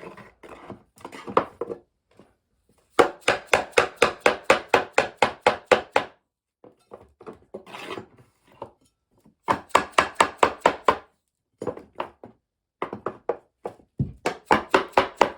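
Hammer tapping a flooring tool to drive a compressed-wood subfloor panel into place. It comes in quick runs of sharp wooden knocks, about five a second, with three main runs of a few seconds each and lighter single taps between them.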